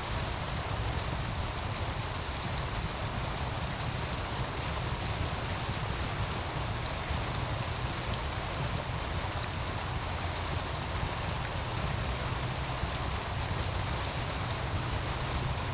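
Steady rush of a meltwater stream, with a deep rumble underneath, and a wood fire crackling with scattered small sharp pops over it.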